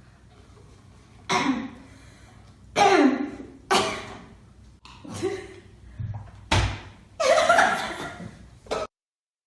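A series of loud, sudden non-speech vocal outbursts from people reacting to very spicy noodles, about one a second, with a low thump about six and a half seconds in; the sound cuts off suddenly near the end.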